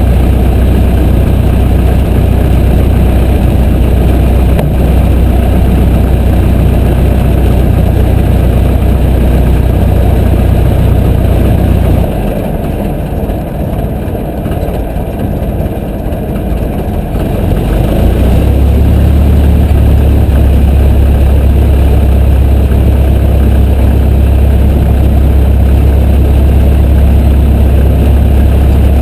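Piper J3 Cub's engine and propeller running loud and steady. A little under halfway through the sound eases off for about six seconds, as if the throttle were pulled back, then picks back up.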